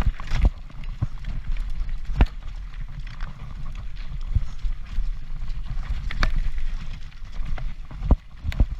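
Transition Patrol mountain bike descending a rough trail, heard from a GoPro mounted on the rider or bike: a steady rumble of wind and tyres with irregular knocks and rattles as the bike hits rocks and bumps.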